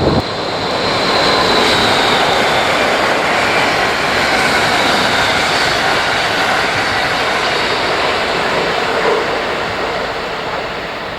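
Train running past on the rails: a loud, steady rush of wheel and rail noise with a faint high whine, easing off near the end.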